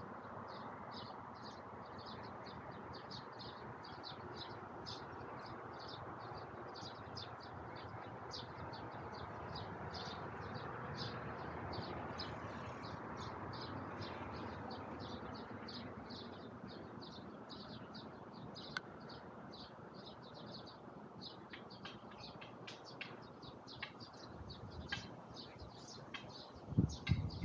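Small birds chirping in quick repeated notes, a few a second, over a steady hum of city traffic that swells for a while in the middle. A few low thumps come near the end.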